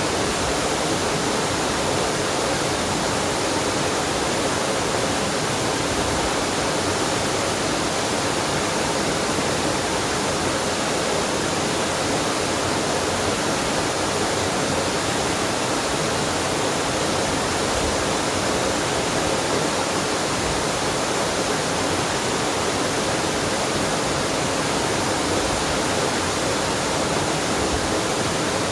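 Waterfall and mountain stream: water rushing steadily with an even, unbroken hiss.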